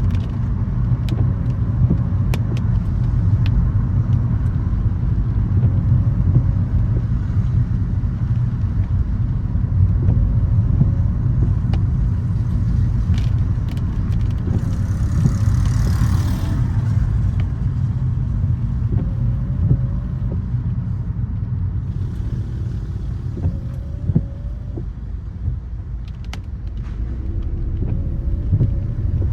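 A car driving on wet city streets: a steady low rumble of engine and tyres, with scattered sharp ticks and a short hiss about halfway through.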